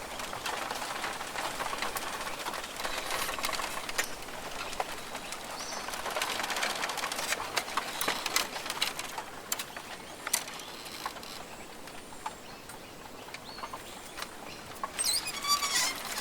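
Rainforest ambience: a continuous patter of small clicks and rustles, with bird calls through it and a quick warbling bird call near the end.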